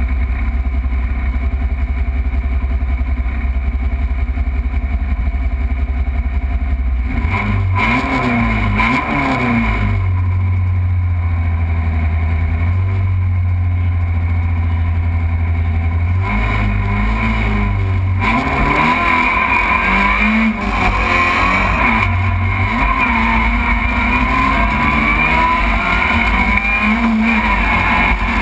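Rally car engine heard from inside the stripped, roll-caged cabin: idling at the stage start, blipped a few times and held at raised revs, then after about 18 seconds launching and accelerating hard, the pitch rising and dropping with each gear change.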